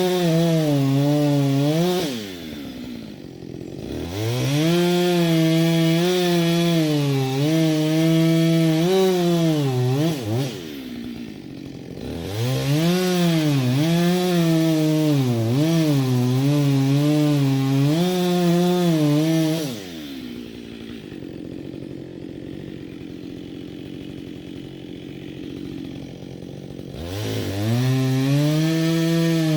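Chainsaw cutting firewood: the engine runs at high revs with its pitch wavering under the load of the cut, drops back to idle briefly about two seconds and ten seconds in, idles for about seven seconds from around twenty seconds, then revs up again near the end.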